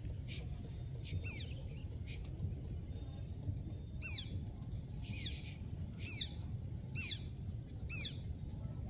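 A bird gives six sharp, high calls that fall in pitch: one about a second in, then one roughly every second over the second half.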